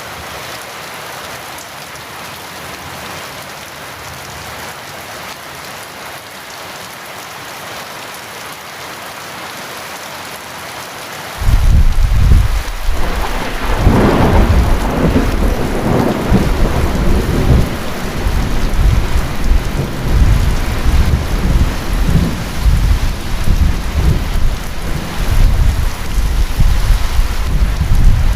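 Heavy rain falling steadily, then about eleven seconds in a loud thunderclap breaks in suddenly and rolls on as deep, uneven rumbling through the rest, with the rain continuing underneath.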